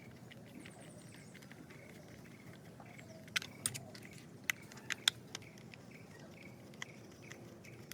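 Small screwdriver driving a screw into a plastic toy bulldozer: faint, irregular clicks and ticks of the driver and the plastic parts, with a few sharper ticks in the middle.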